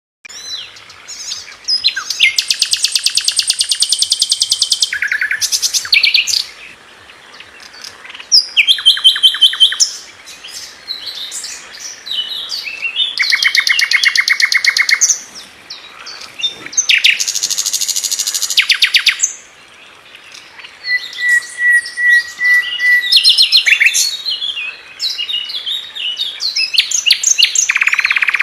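Sikatan londo (flycatcher) singing loudly: bursts of very rapid, tightly packed repeated notes lasting two to three seconds each, the 'tembakan rapat' valued by songbird keepers, alternating with varied high chirps, and a steady thin whistle about two-thirds of the way through.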